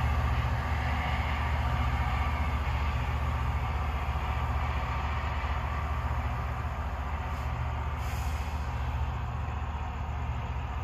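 Loram rail grinding train running on the track: a steady heavy rumble of its engines and rolling noise, slowly fading.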